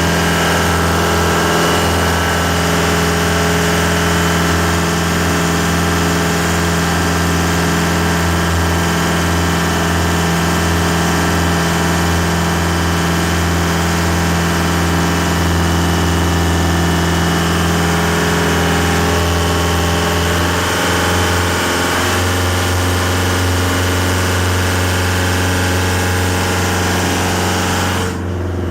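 Yamaha DY29B boat's engine running steadily under way, with a brief change in its low hum about twenty seconds in.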